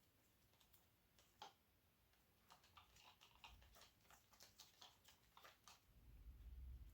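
Faint, irregular small clicks and ticks: one sharper click, then a quick run of them. A low rumble comes in near the end.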